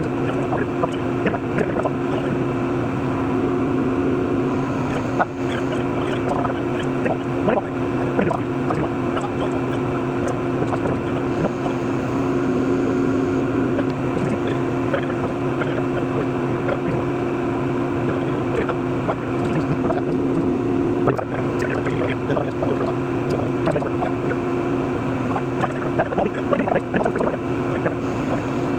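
Lathe cutting a stainless steel workpiece with coolant flowing: a steady machine hum with continuous crackling and spattering of coolant and chips.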